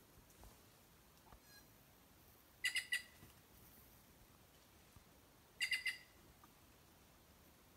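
A bird calling twice, about three seconds apart, each call a quick run of three or four short, clear notes.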